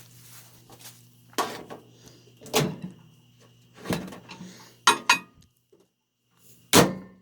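Steady hum of the running GE microwave oven under a few knocking steps, about one a second, with the hum stopping about five seconds in. A door clicks twice just before the hum stops, and there is a louder knock near the end.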